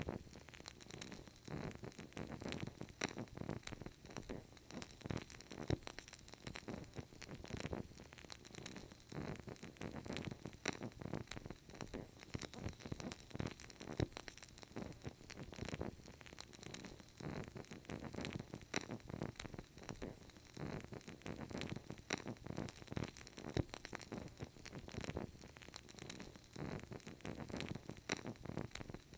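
Burning candle crackling: a steady, dense run of small irregular clicks and pops over a soft hiss.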